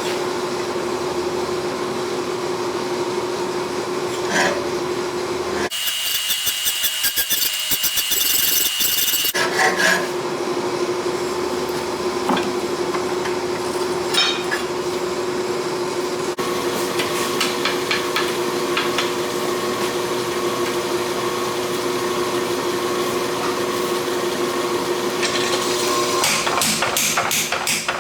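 Hammer blows on steel while forging a blade, coming in quick runs of sharp strikes over a steady machine hum.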